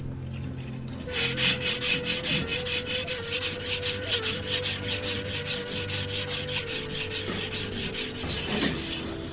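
Rapid back-and-forth hand rubbing strokes, like sanding or scrubbing, about four a second. They start about a second in and stop near the end.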